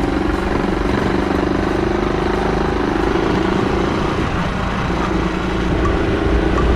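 Motorcycle engine running steadily while riding, with a noisy rush over it. The engine note drops briefly about four and a half seconds in, as at a gear change, then picks up again.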